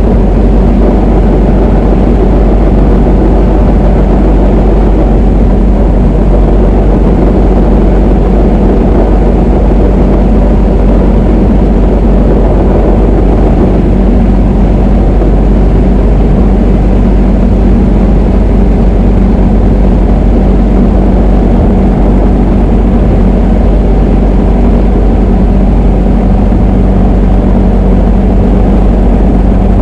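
Diamond DA20 light aircraft's piston engine and propeller running at a steady speed, with no change in pitch or level.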